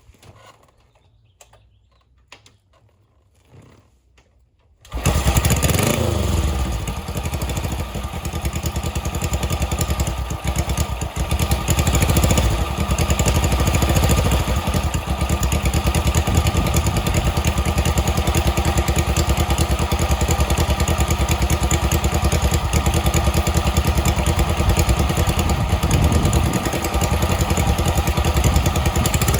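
1964 Honda CL72 Scrambler's 250 cc parallel-twin engine on a cold start without choke: after a few faint clicks it fires suddenly about five seconds in and catches at once, then runs steadily, the revs rising and falling now and then.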